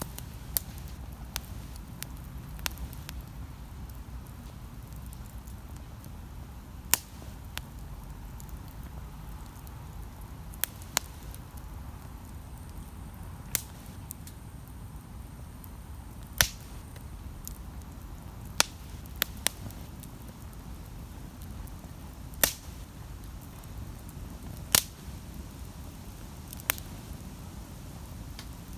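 Wood campfire burning, with a steady low rumble and sharp single crackles and pops every second or two.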